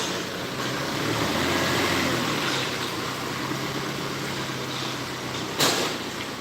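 A vehicle engine running steadily, with one sharp knock near the end.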